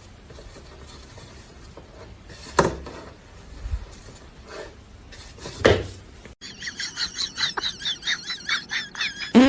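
Two sharp clattering knocks, like hard objects hitting dishes, about three seconds apart. Then rapid high warbling calls, typical of birds such as chickens, come in suddenly.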